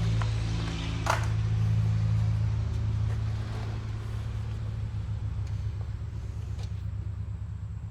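Steady low mechanical hum, easing off a little in the second half, with one sharp click about a second in and a few faint ticks after it.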